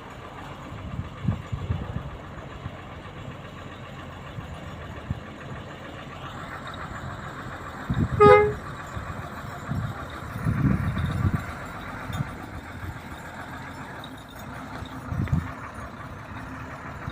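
Loaded Hino truck with an H07D diesel engine running on the road under steady engine and road noise, with several low thuds and swells. A short horn toot sounds about eight seconds in.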